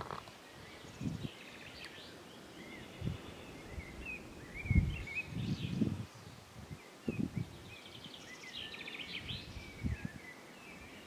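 Small birds chirping and calling repeatedly, with a few brief low thuds or bumps.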